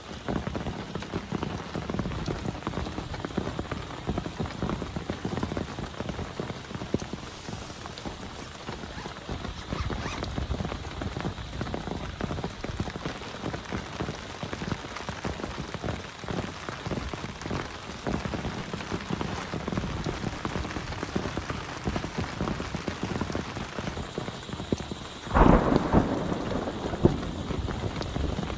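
Heavy rain falling, with many separate drops striking a surface close by. A sudden loud thunderclap hits near the end, and the rain and rumble stay louder afterwards.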